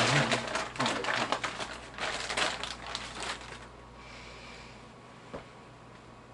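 Plastic packaging crinkling and rustling as it is handled, with quick clicks, for about three and a half seconds; then quiet room tone and a single click about five seconds in.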